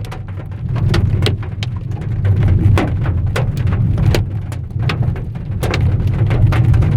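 Large hailstones hitting a car's roof and windscreen, heard from inside the cabin: many sharp, irregular hits over the steady low rumble of the moving car.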